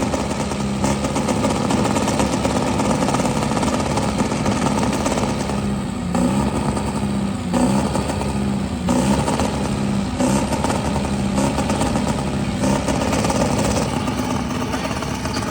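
Truck engine running loud and revving repeatedly, its pitch surging up and down every second or two.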